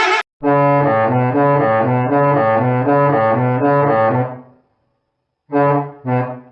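Bus musical horn playing a quick tune of changing notes, about three notes a second, for some four seconds. After a short pause come a few short honks near the end.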